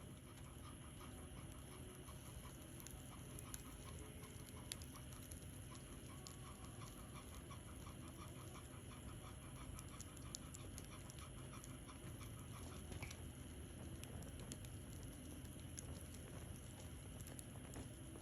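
Wood fire crackling faintly, with scattered sharp pops. A dog pants rapidly through much of the first two-thirds.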